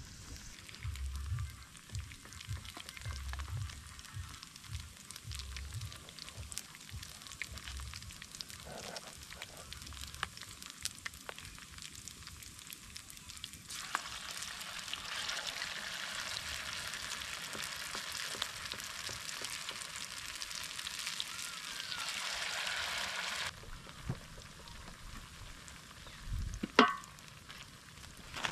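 Flour-battered potato pieces (viazi karai) frying in hot vegetable oil, a steady sizzle that grows louder for about ten seconds in the middle. A single sharp knock comes near the end.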